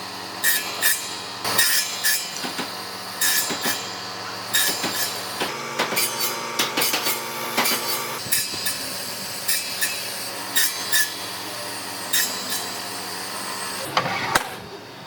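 Hand-tool work on wood: irregular scraping and knocking strokes, one to three a second, over a steady hum, with one louder stroke near the end.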